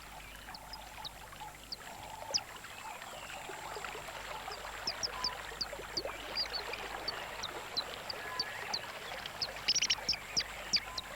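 Small birds giving many short, high chirps, irregularly spaced and bunched together near the end, over a steady background hiss.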